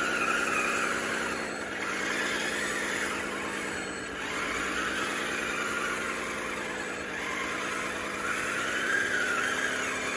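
RC bulldozer's electric drive motors and gearing whining steadily as it pushes dirt, the pitch wavering slightly with load. A higher wavering squeal rides over it, strongest at the start and again near the end.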